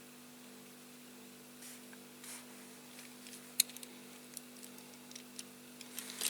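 Light clicks and taps from handling a small diecast model car and its stickers, with one sharper click about three and a half seconds in and a few soft rustles, over a steady electrical hum.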